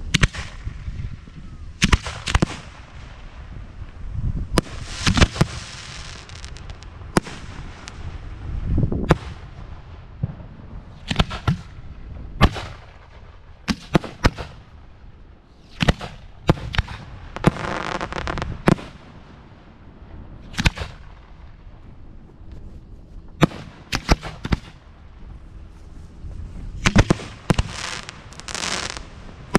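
Display fireworks shells being fired and bursting in quick, irregular succession: many sharp bangs, several of them trailed by about a second of crackle, around five, seventeen and twenty-eight seconds in.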